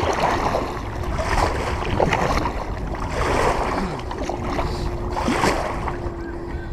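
Kayak paddle strokes splashing in the water, about one a second, over low wind buffeting on the microphone. A faint steady hum joins in the second half.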